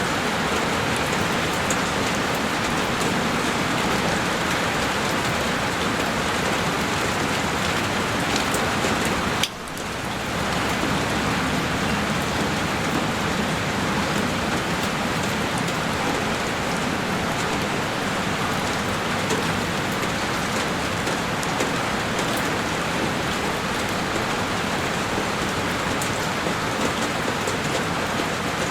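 Heavy rain falling on a window, a steady dense hiss with scattered sharp drop ticks. The sound dips briefly about ten seconds in, then carries on as before.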